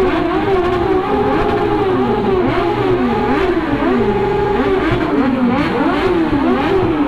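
Superbike engines revved hard over and over, their pitch climbing and dropping about once a second, with several revs overlapping. The revving is loud and echoes in an enclosed concrete parking garage.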